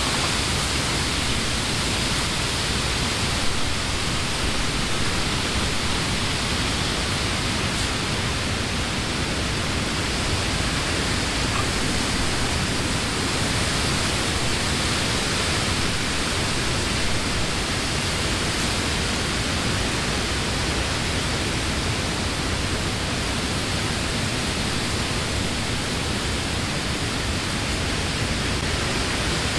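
Summer wind blowing steadily through leafy trees: an even, unbroken hiss of moving leaves with no gusts or pauses.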